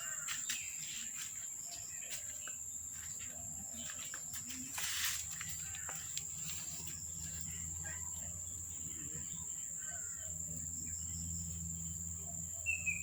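Outdoor ambience: a steady high insect drone with a low steady hum beneath, a brief rustling burst about five seconds in, and a short bird chirp near the end.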